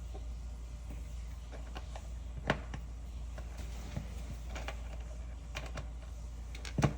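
Plastic Lego bricks clicking and tapping as they are handled and pressed together: a few scattered sharp clicks, the loudest near the end, over a steady low hum.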